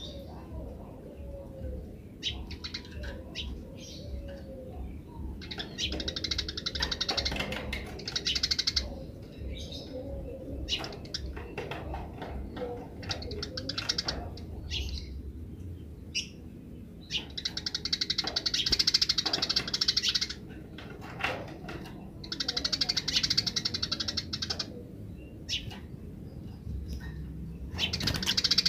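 Eurasian tree sparrows chattering: bursts of fast, dense chirps lasting two to three seconds, separated by pauses with scattered single chirps, over a steady low hum.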